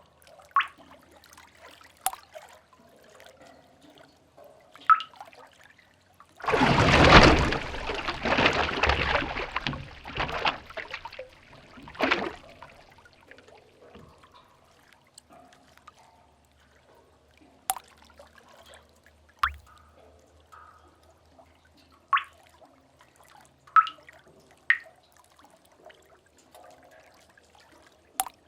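Sea-cave ambience: single water drops dripping into a pool, one every second to few seconds. About six seconds in, a wave splashes in loudly, churns for about five seconds and dies away with one more splash.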